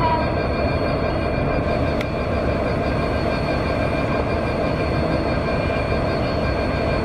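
Diesel-electric locomotive hauling a passenger train as it approaches: a steady, even rumble of engine and wheels with a few thin, steady high-pitched tones above it. There is a single short click about two seconds in.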